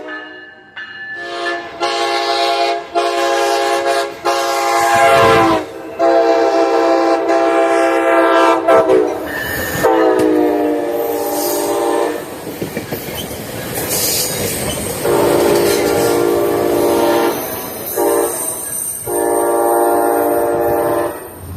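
A locomotive at a station sounding its horn in a long series of blasts, several seconds each, with one blast sliding down in pitch about halfway through.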